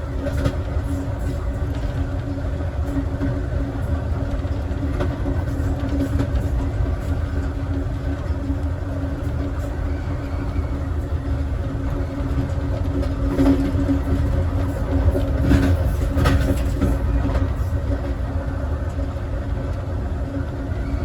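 Passenger train running steadily along the track, heard from on board: a continuous low rumble of wheels on rail with a steady hum. A few louder knocks and clatters come about two-thirds of the way through.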